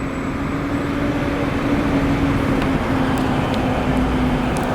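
A motor vehicle engine running steadily, with a constant low hum over road and street noise.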